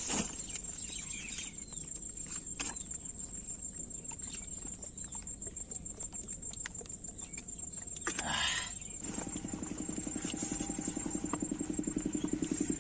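A motor engine running steadily comes in about two-thirds of the way through, with a low pulsing throb, over a thin high steady whine and a few light clicks; a short rustle just before the engine starts.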